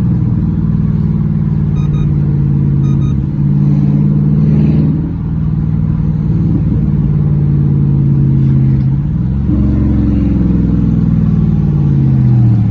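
Straight-piped 5.7 HEMI V8 exhaust running loud with a deep, steady drone, dipping briefly about five seconds in, then rising in pitch around nine seconds and falling away near the end.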